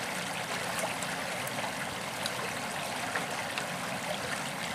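Running water of a stream, a steady rush.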